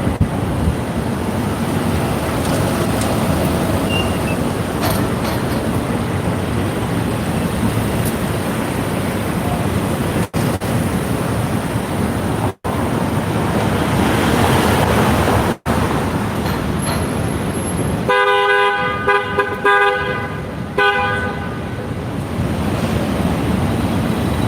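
Street traffic noise, with a vehicle horn honking in a few blasts lasting about three seconds, about three-quarters of the way through.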